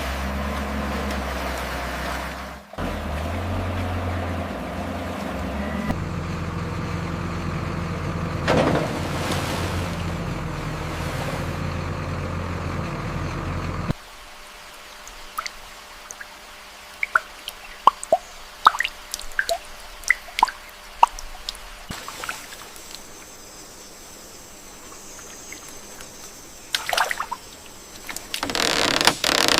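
A steady, loud engine or machinery rumble, which cuts off about halfway through to quieter water dripping and trickling, with scattered sharp drips and a short splashing burst near the end.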